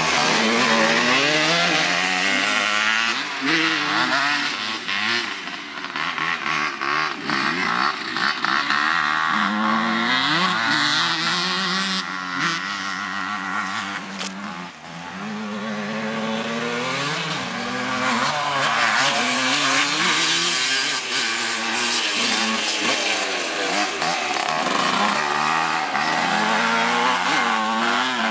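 Two-stroke dirt bike engines on a motocross track, revving hard and falling off again and again as the riders open and close the throttle and shift.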